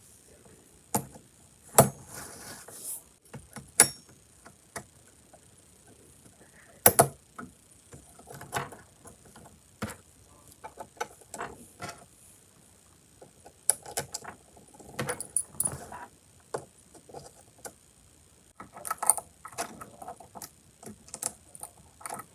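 Small plastic and metal parts of an HO scale model boxcar kit being handled: irregular sharp clicks, taps and light rattles as the weight and underframe are fitted to the floor.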